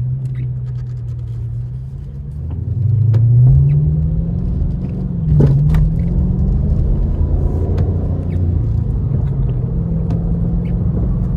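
Dodge Charger R/T's 5.7-litre HEMI V8 heard from inside the cabin: running steadily, then accelerating from about two and a half seconds in with a rise in pitch and loudness, a brief dip in pitch near the middle like an upshift, then holding a steady cruise.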